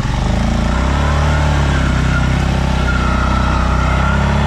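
Stels Leopard 650 ATV engine revved and held at high revs, with a wavering whine over it, dropping back toward idle near the end. The quad is straining in deep snow and getting stuck.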